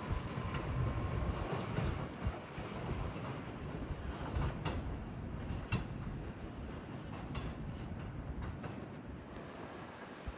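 New York City Subway Q train running through the station, a steady rumble with a few sharp clicks of the wheels over rail joints, easing a little near the end.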